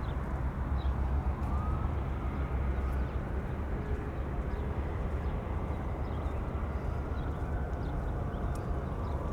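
Steady wind rumbling on the microphone over the low outdoor wash of the waterfront, with a few faint high chirps.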